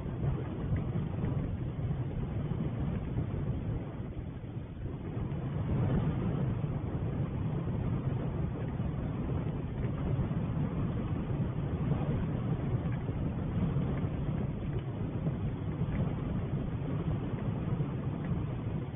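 A steady low rumble of outdoor noise with no distinct events, like wind on an outdoor camera's microphone.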